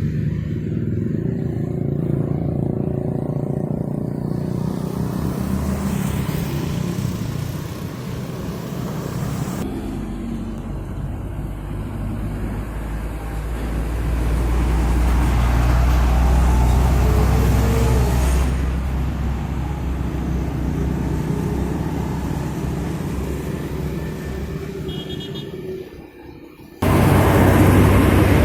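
Heavy road traffic: diesel engines of trucks and buses running and passing, with a deep rumble swelling in the middle. The sound changes abruptly about ten seconds in and again near the end.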